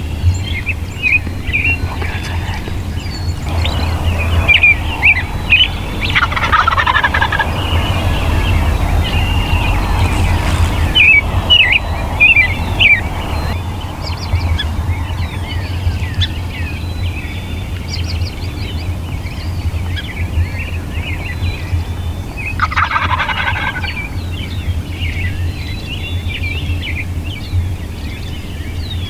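Wild turkey gobbling twice, about four seconds in and again near the middle of the last third, over songbirds chirping throughout. A steady low hum runs underneath.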